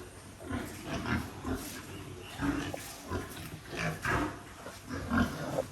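Pigs in a pen grunting, a string of short, irregular grunts.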